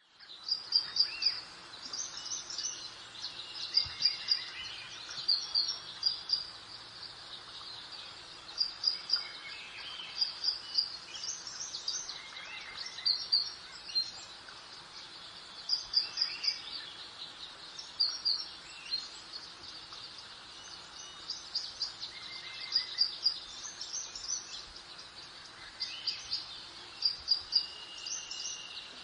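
Songbirds chirping and singing in short, quick high phrases that recur every second or two, over a steady soft hiss of breeze.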